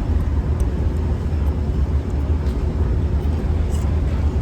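Steady low rumble of a vehicle in motion, even and unbroken, with a few faint ticks above it.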